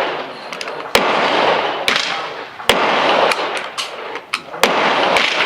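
Gunshots at a shooting range: four sharp reports, spaced unevenly from under a second to about two seconds apart, most followed by a long echoing wash.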